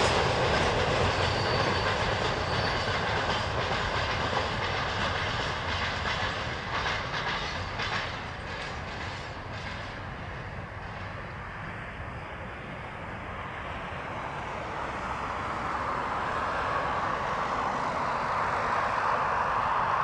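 Empty open freight wagons rolling past on the rails, wheels clattering over the rail joints, fading away once the last wagon has passed about halfway through. A steady hiss builds again in the last few seconds.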